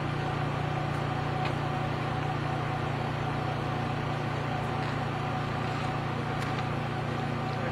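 Steady low machine hum with a thin constant whine from a passenger train standing at the platform.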